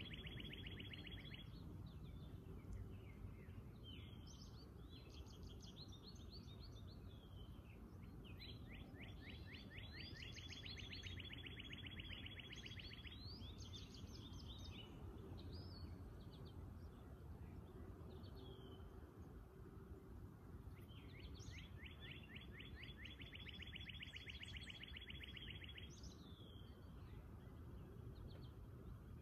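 Songbirds singing: a long, rapid, even trill that comes back about every ten seconds, with shorter chirps and warbled notes from other birds in between, over a faint low background rumble.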